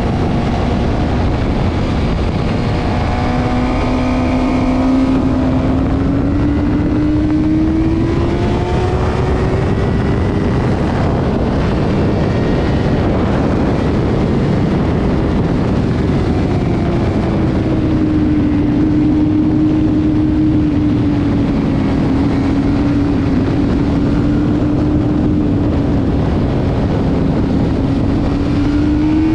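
Motorcycle engine at speed, heard under heavy wind rush. Its note climbs steadily for several seconds, then holds at a steady, slightly wavering pitch.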